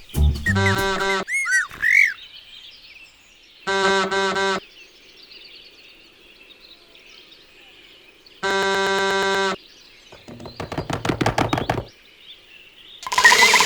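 Cartoon bird sound effects: short buzzy honks separated by pauses, with chirp-like whistles early on, a stuttering rattle about 11 seconds in, and a loud, dense burst starting just before the end, over a faint hiss.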